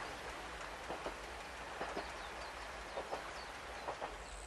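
Distant single-car KiHa 120 diesel railcar running away over the line, its wheels knocking faintly over the rail joints, often in close pairs, against a steady outdoor background.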